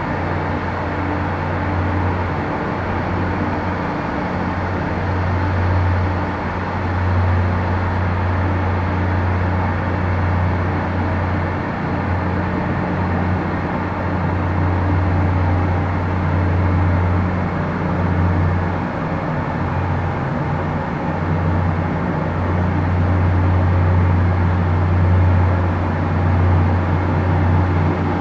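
Steady low engine drone with a constant hum, swelling slightly in loudness now and then.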